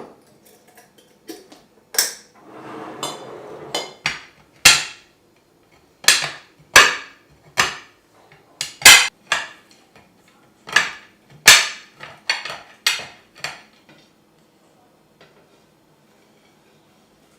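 Dishes and utensils being handled at the kitchen sink: about fifteen sharp clinks and knocks of crockery and cutlery set down against hard surfaces, unevenly spaced, with a brief rustle near the start. It falls quiet for the last few seconds.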